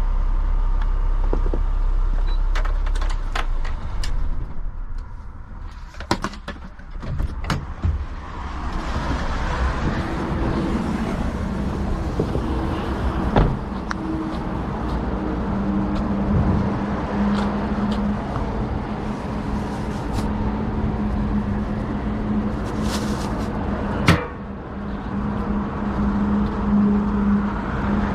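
A truck's engine running, then switched off a few seconds in, followed by clicks and door clunks. After that, steady outdoor vehicle noise with another engine running steadily, broken by a couple of single knocks.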